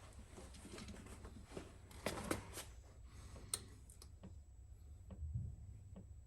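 Faint, scattered light clicks and knocks of an oil container and a paper towel tube funnel being handled as engine oil is poured, with a small cluster about two seconds in, a sharp click a little later and a soft low thump near the end, over a steady low hum.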